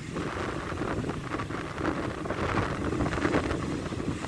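Strong wind buffeting the microphone over the rush of heavy surf from a rough sea.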